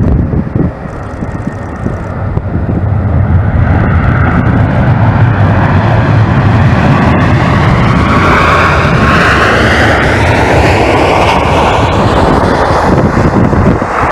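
Jet airliner passing close. Its engine rumble builds over the first few seconds and stays loud, with a whine that shifts in pitch as it goes by.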